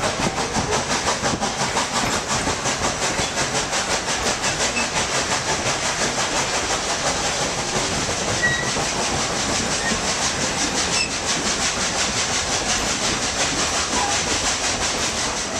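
Narrow-gauge train running, with the Baldwin 2-8-2 steam locomotive working up front: a steady rush of wheel and track noise with a fast, even rhythmic beat.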